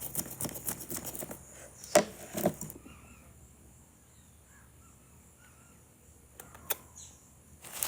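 A few sharp knocks and clicks, the loudest two about two and two and a half seconds in, then a faint bird calling several short times, with more clicks near the end.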